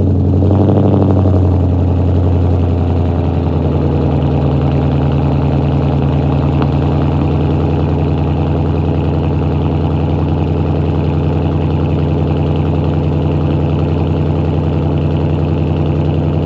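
2013 Ford Mustang GT's 5.0 L V8 idling loudly through a resonator-deleted exhaust with aftermarket axle-backs, just after a cold start. The idle settles a little lower over the first few seconds, then runs steady.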